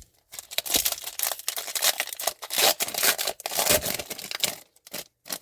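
Crinkling and tearing of a trading card pack's wrapper being opened and handled for about four seconds, followed by a few light rustles near the end.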